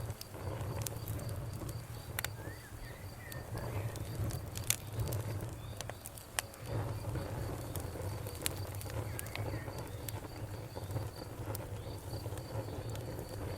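Wood fire crackling, with irregular sharp pops over a steady low rumble, two of them louder about five and six seconds in. A high, even chirping pulses about three times a second in the background.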